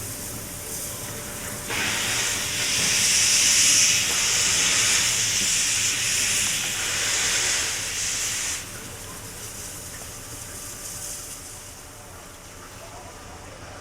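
Steam locomotive letting off steam: a loud hiss that starts suddenly about two seconds in, holds for about seven seconds and cuts off sharply.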